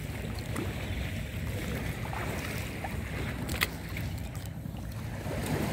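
Small boat at sea in choppy water: a steady low rumble with the wash of wind and water. A single sharp click about three and a half seconds in.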